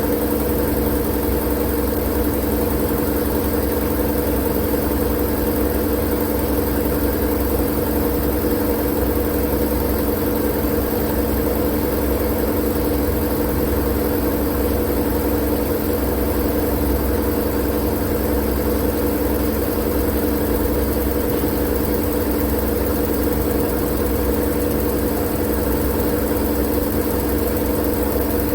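Steady, unchanging white-noise track: a constant hiss with a low hum running through it.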